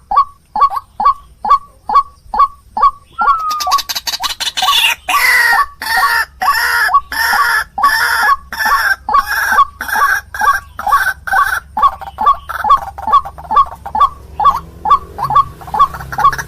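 White-breasted waterhen calling in a fast series of sharp, repeated notes, about three a second. A few seconds in, the calling thickens into a denser, overlapping chorus with a higher layer of notes.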